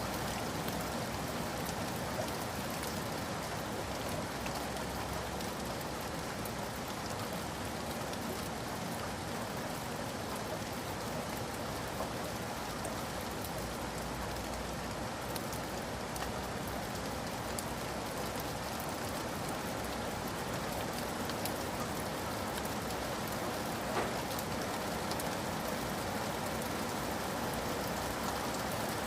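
Steady rain falling, an even hiss with many small drop ticks on a surface, and one slightly louder drop about 24 seconds in.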